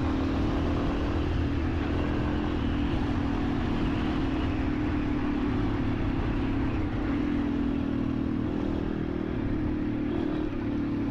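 Motorcycle engine running at a steady speed while riding, holding an even note over road and wind noise.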